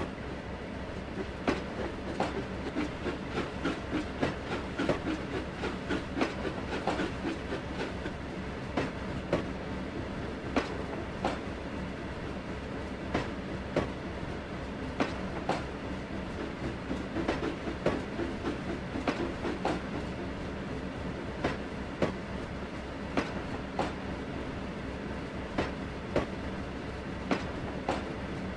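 Railway carriage wheels running along the track with a steady rumble, clicking over rail joints every second or so.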